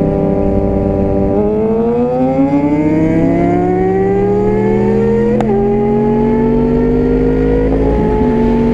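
Yamaha YZF-R1's crossplane inline-four sport-bike engine, running steady and then accelerating hard, its pitch rising for about four seconds. It upshifts about five seconds in, the pitch dropping sharply, and runs on at a nearly steady pitch.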